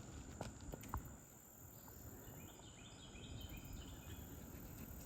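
Outdoor insect drone, with a bird singing a short run of quick repeated notes from about two and a half seconds in. Two light clicks come in the first second.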